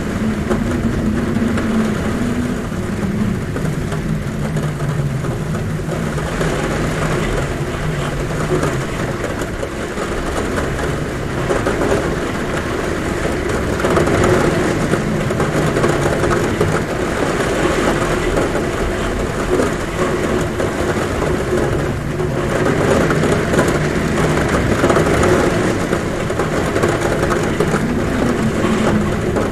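Heavy rain falling steadily on a roof, with a low humming wind at the window that wavers slowly in pitch.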